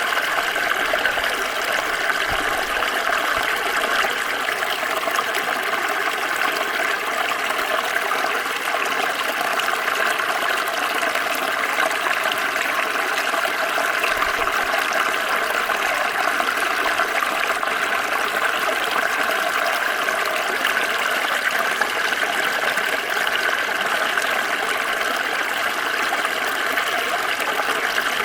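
Small stream flowing, a steady, even rush and trickle of running water.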